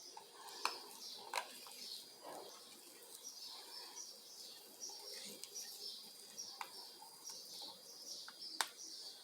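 Faint bird chirping, short high calls repeating about twice a second, with a few sharp clicks: two about a second in and one near the end.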